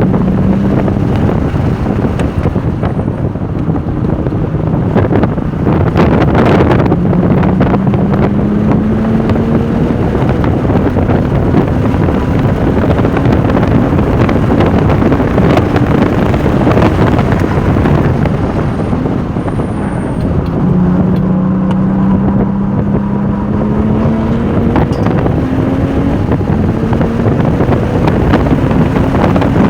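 Porsche 996 Turbo's twin-turbo flat-six pulling hard at speed, its pitch climbing steadily through long runs and dropping back at gear changes, under a thick rush of wind and road noise.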